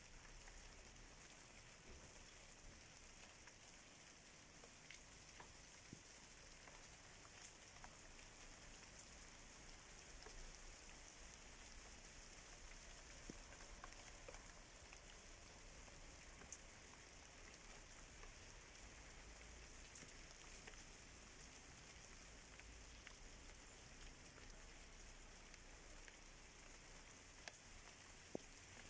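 Faint, steady light rain falling, with scattered small drops ticking.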